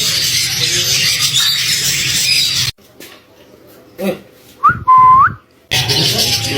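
A loud whistle a little under five seconds in: a short rising note, then a held note that sweeps upward at its end. Before and after it, with sudden cuts, is a dense noisy din.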